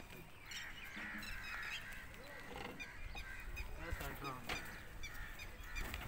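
Birds calling and chirping over and over, with two sharp knocks a little past halfway.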